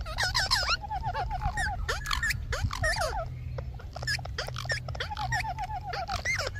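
Lovebirds chirping and chattering: quick squeaky whistles and chirps, with a rapid rattling run of hooked notes repeated several times.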